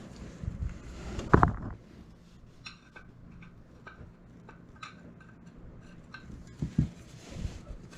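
Handling of metal tools and parts: a knock about a second in, then a run of light, irregular metallic clicks and clinks, and another thump near the end.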